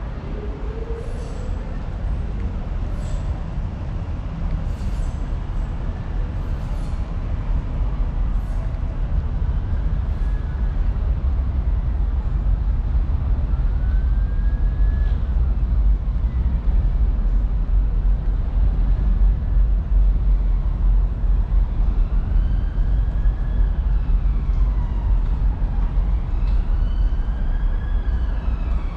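Heavy low rumble of passing traffic or a train, with a few sharp clicks in the first several seconds. An emergency-vehicle siren comes in, wailing up and down and growing louder over the last several seconds.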